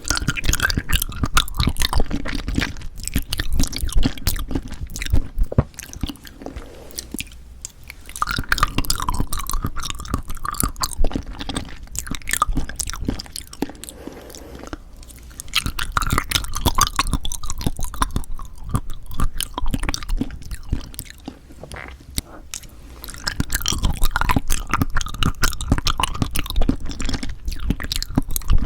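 Close-miked chewing of Cheonhyehyang citrus cup jelly: dense wet, clicky mouth sounds coming in bouts of a few seconds, with short quieter pauses between them.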